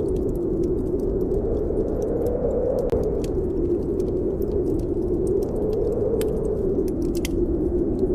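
Snowstorm wind blowing steadily, a low whoosh that slowly rises and falls, over a wood fire crackling with scattered sharp pops.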